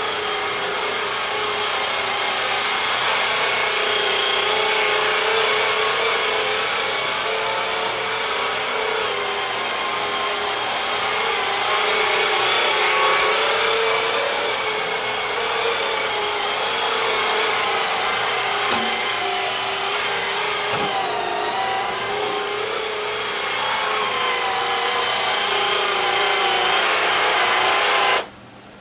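Small vacuum cleaner running steadily, its motor whine wavering a little in pitch as it is pushed over the floor, switched off abruptly near the end.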